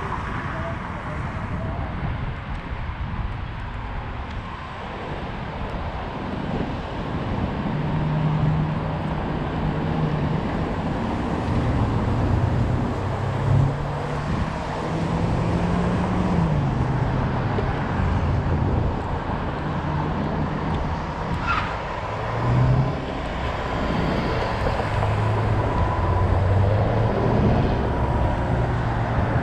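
Road and wind noise on a moving ride, with a low motor hum that shifts up and down in pitch in steps.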